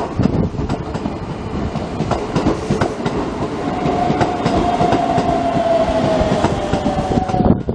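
A commuter electric train running along the station track, its wheels clacking over rail joints. From about halfway in, a steady high tone sounds over the noise, falling slightly in pitch, and it stops just before the end.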